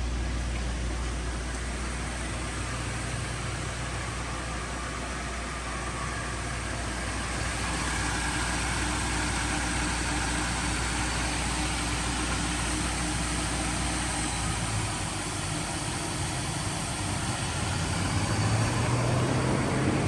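The 2008 Range Rover's 4.4-litre V8 engine running steadily at idle. The pitch of its low hum shifts about three-quarters of the way through, and a slightly higher hum comes up near the end.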